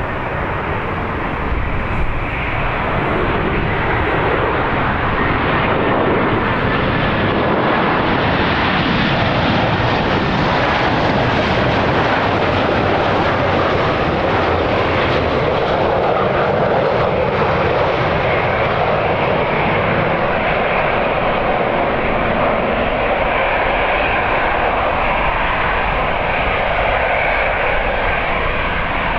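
Jet airliner's engines, a loud steady rush of noise that builds over the first few seconds and then holds.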